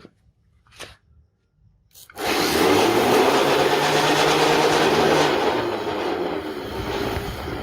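A small power tool running steadily for about six seconds, starting about two seconds in and stopping abruptly at the end; a few short scrapes come before it.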